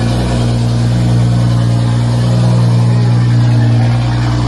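Car engine running steadily with a loud exhaust note, a deep even drone that swells slightly in the middle.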